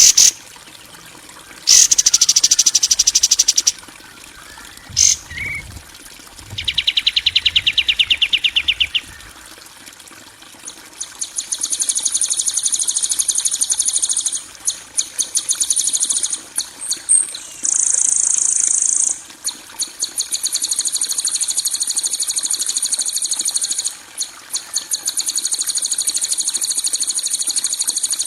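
Masteran recording of harsh, rapid high-pitched trills and rattles of the kind used to tutor caged songbirds. Short trills of a couple of seconds come first, one of them lower in pitch. From about a third of the way in, buzzy trills run almost without a break, pausing only briefly.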